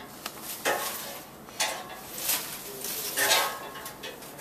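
Irregular rustling and light clattering, a short scrape or click about every second, as entries are mixed and picked from a container for the prize drawing.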